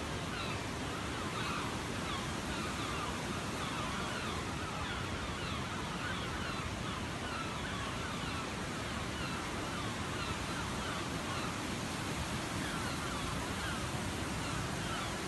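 Steady rush of a waterfall, with many short falling bird calls over it throughout.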